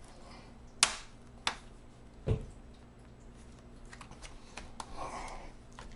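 Sharp plastic clicks and snaps from a laptop's plastic bottom cover being pried at its clips, with a dull knock a little after two seconds in and lighter clicks and rustling near the end. The cover is stuck and not yet coming free.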